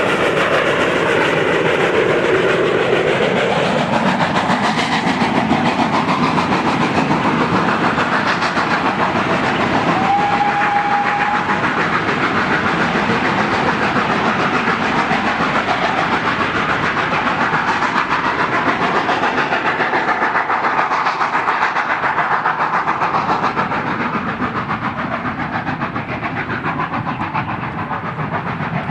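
Steam train running, a steady rumble of the locomotive and wheels on the rails, with one short whistle note about ten seconds in.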